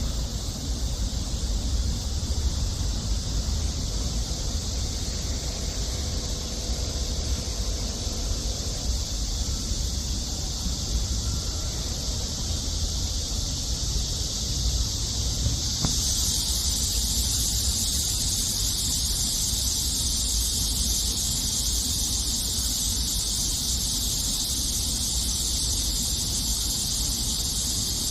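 Dense, steady insect chorus, a continuous high-pitched shrill that swells louder and brighter about halfway through, over a low outdoor rumble.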